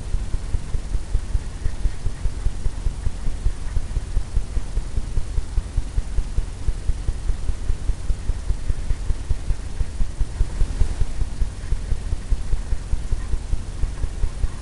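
A brush tapping and scrubbing on a stretched canvas, giving a fast, even run of low thumps, about five a second.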